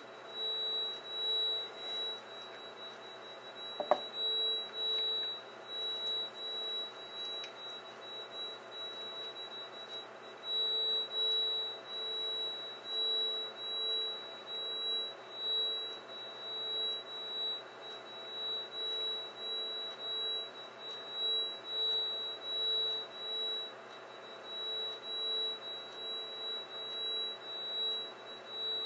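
A played-back recording of a droning hum: several steady tones, one low and two high-pitched, pulsing on and off about twice a second over a hiss. A single sharp click about 4 seconds in.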